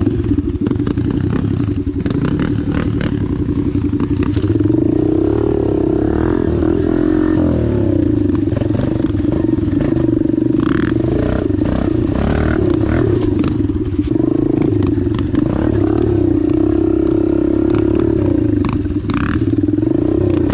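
Dirt bike engine running steadily under load while riding over rough ground, its revs rising and falling a little, with scattered knocks and clatter.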